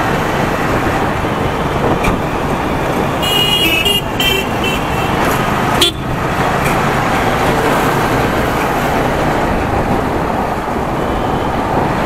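Steady motorcycle riding noise in road traffic, with several short horn toots about three to five seconds in and a sharp knock about six seconds in.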